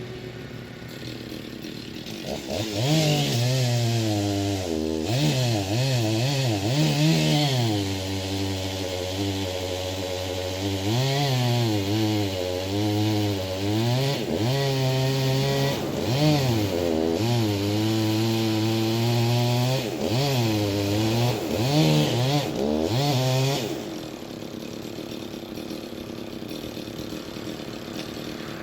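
Two-stroke chainsaw ticking over at idle, then throttled up about two seconds in and cutting into a hardwood tree trunk for about twenty seconds, its engine pitch rising and dipping as the chain bites into the wood for the felling notch, then dropping back to idle near the end.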